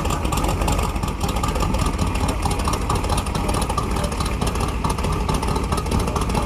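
A car engine running at idle, with a steady low rumble.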